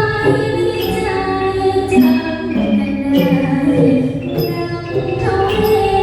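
Live Thai traditional music: a singing voice over an instrumental ensemble, with sharp small-cymbal strikes at a regular beat.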